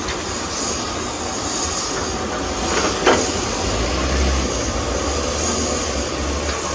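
Diesel earthmoving machinery such as excavators and dump trucks running with a steady low rumble, and two sharp metallic clanks about three seconds in.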